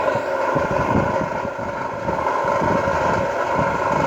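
A 1.5 kg stainless-steel oil spinner (centrifugal de-oiling machine) running at speed, its 60-watt electric motor spinning the basket with a steady hum over a low rumble.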